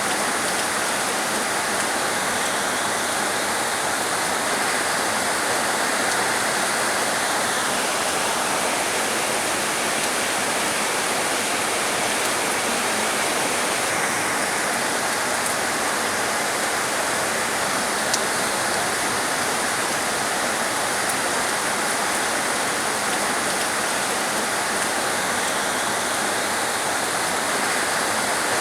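Heavy rain falling in a steady, dense hiss, with one faint tick about 18 seconds in.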